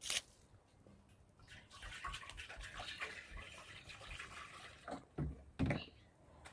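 Water splashing and trickling, as from a wet cloth being rinsed or wrung out, in a small room. A sharp knock comes at the start and a few dull thumps about five seconds in.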